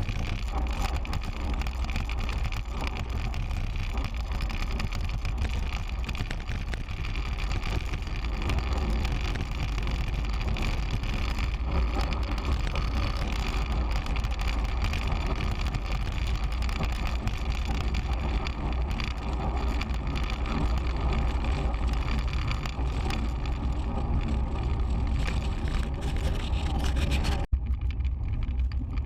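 Wind rushing over a bike-mounted GoPro Hero 3's microphone, with rumbling tyre and road noise from a road bicycle being ridden. The noise drops out for an instant near the end and comes back duller.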